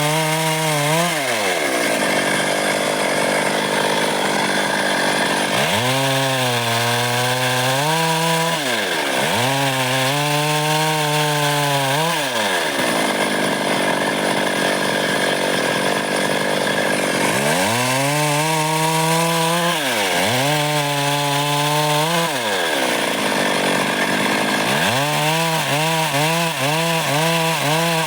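Stihl MS 382 two-stroke chainsaw cutting dry wood. Its engine note repeatedly sags and climbs back as the chain bites and eases. This alternates with several stretches of steady cutting noise in which no clear engine pitch is heard.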